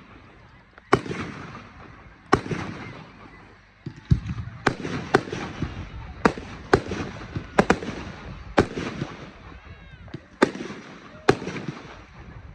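Aerial firework shells bursting in a string of about a dozen sharp bangs at uneven intervals, with crackling and echo between the bangs.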